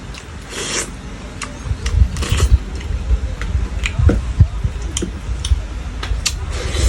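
Close-up eating sounds: chewing with small clicks and knocks, and three short hissing sounds about half a second, two seconds and near seven seconds in.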